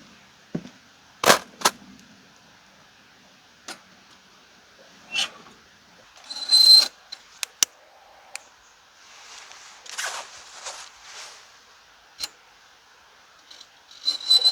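Objects being handled: scattered sharp knocks and clicks, with a short metallic clink about six and a half seconds in and another near the end, and a stretch of rustling around ten seconds in.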